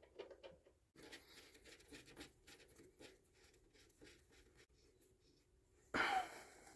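Faint, irregular scratching and handling clicks of parts being worked by hand on a tractor, with no engine running. About six seconds in comes a louder, brief rustling scrape.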